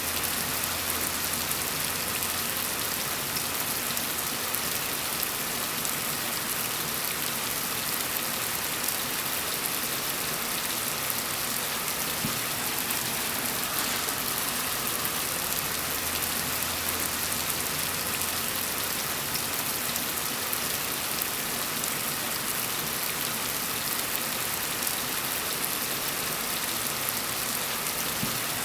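Steady rain falling, an even continuous hiss with no breaks or single loud drops.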